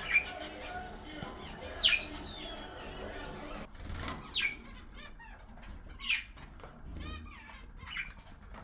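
Parrots in an aviary giving short, sharp squawks that sweep quickly in pitch, one every second or two.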